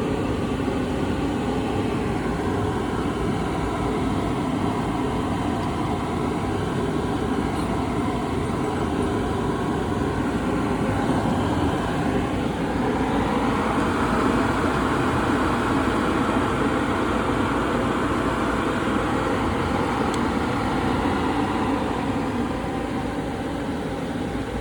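Parker Majestic reciprocating surface grinder running steadily under power. About halfway through, a higher-pitched noise grows louder and holds.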